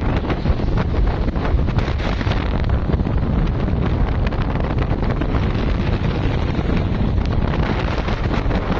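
Strong wind blowing across the microphone: a continuous low rumble with crackling gusts.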